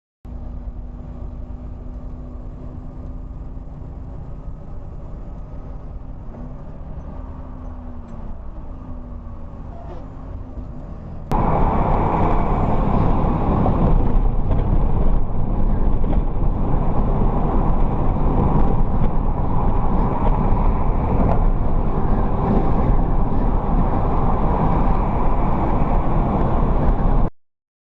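Steady road and engine noise of a moving vehicle, which jumps abruptly to a much louder, denser noise about eleven seconds in and stays there until it cuts off just before the end.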